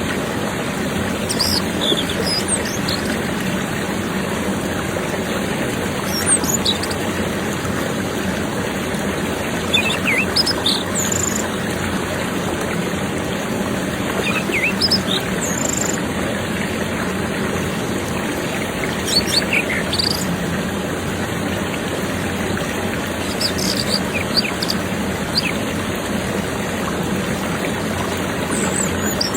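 Orange-headed thrush (anis merah) giving short, scattered chirps and whistles, a dozen or so spread out with pauses between them, over a steady rushing noise like running water.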